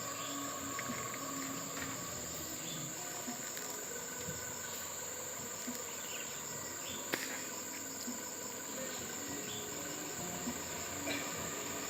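Insects droning steadily at a high pitch, with a few faint clicks and knocks.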